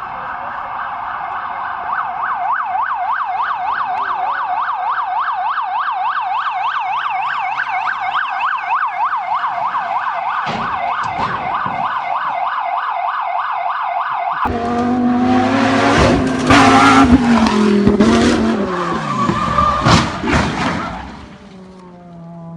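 Emergency vehicle siren wailing in a fast, even yelp, several cycles a second. After about fourteen seconds it cuts off abruptly to loud car noise: an engine whose pitch falls, with rushing noise and several sharp knocks, before it dies down near the end.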